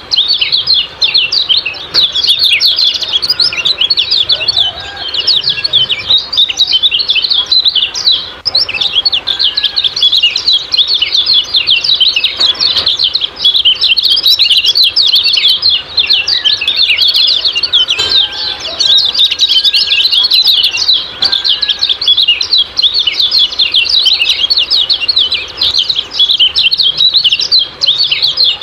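Kecial kuning songbird giving its rapid 'ciak-ciak' chirping call, a dense and unbroken stream of quick, high chirps, with a few fainter, lower whistled notes now and then.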